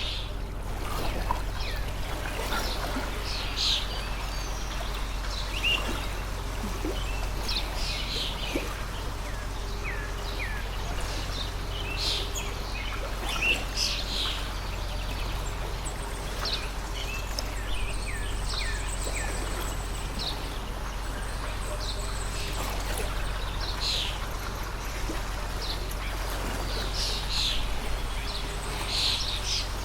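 A stream of water flowing steadily, with many short bird chirps scattered over it.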